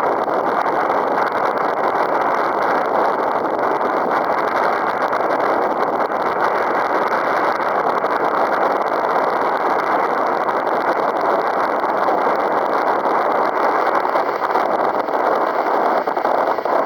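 Strong wind, near 15 m/s, blowing steadily across the microphone as a loud, even rush.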